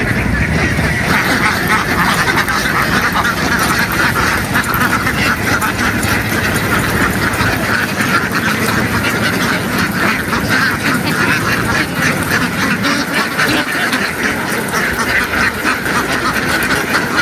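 A large flock of domestic ducks quacking, many calls overlapping into a continuous din.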